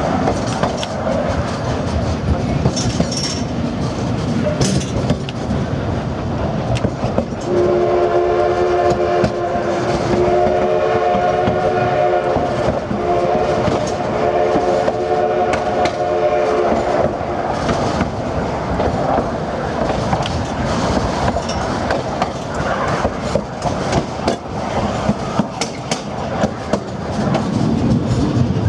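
Narrow-gauge passenger cars rolling steadily on the rails with clicking over the rail joints. About a third of the way in, the steam locomotive's whistle sounds two long blasts, a chord of several tones together, before the rolling noise carries on alone.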